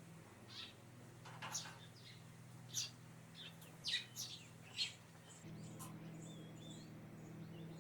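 Eurasian tree sparrow chirping: about seven short, sharp chirps over the first five seconds. A low steady hum runs underneath and gets louder a little past halfway.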